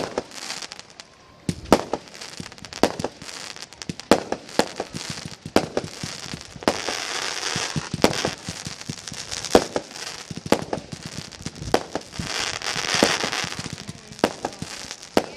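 Aerial fireworks display: sharp shell bursts bang about once a second, over crackling and sizzling from the bursting stars. The crackle swells about halfway through and again near the end.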